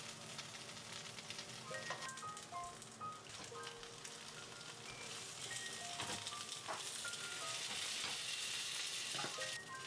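Gyoza sizzling in a frying pan on a gas stove, a steady hiss with a few sharp crackles, swelling near the end.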